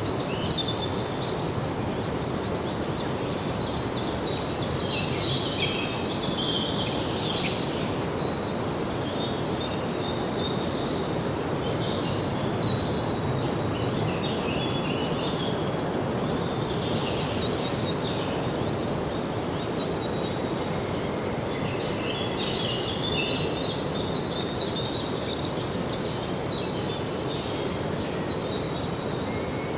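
Songbirds chirping and twittering in bursts over a steady low outdoor background hum, with livelier spells of song near the start and again near the end.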